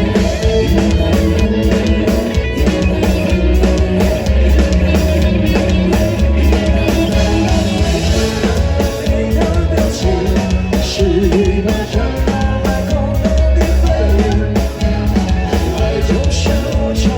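Live rock band playing an instrumental passage of a song, with a driving drum kit and guitars at a steady loud level.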